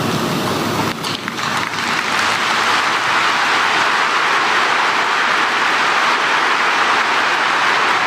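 Large crowd applauding, building up about a second in to steady, loud applause.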